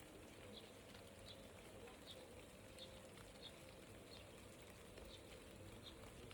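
A small bird chirping faintly: one short high chirp about every 0.7 s, over a quiet outdoor background.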